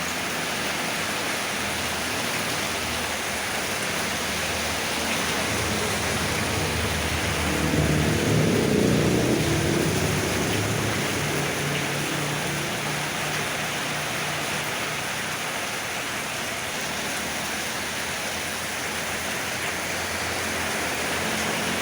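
Heavy rain with strong wind, a steady hiss, swelling louder about eight to ten seconds in.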